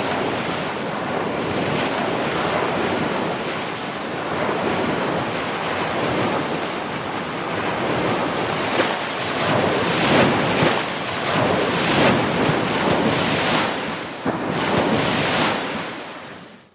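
Ocean surf washing and breaking in a steady rush, turning choppier with many quick splashes in the second half, then fading out just before the end.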